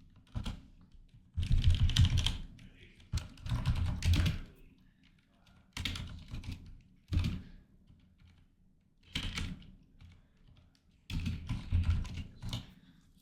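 Typing on a computer keyboard in about six short bursts of rapid keystrokes, separated by pauses of a second or so.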